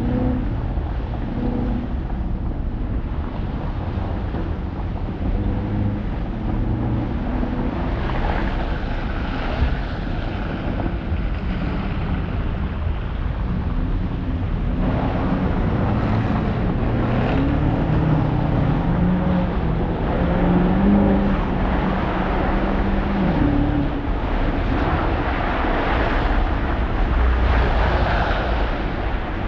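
Alpina XB7's twin-turbo V8 and its tyres while driving on snowy streets, a steady rush of road and wind noise with the engine note climbing under acceleration about halfway through, then falling back.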